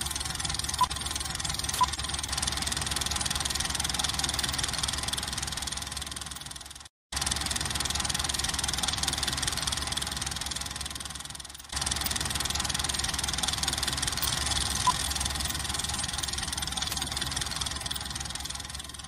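Film projector sound effect running steadily under a film countdown leader, with short high beeps about once a second at the start and one more beep later. It cuts out briefly about seven seconds in and starts again.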